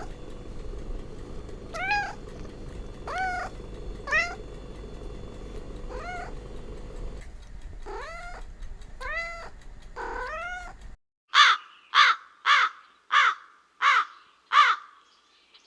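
A cat meowing repeatedly, about nine drawn-out meows over a steady background hum. About eleven seconds in it cuts abruptly to six short, loud, harsh calls in quick succession, a crow cawing.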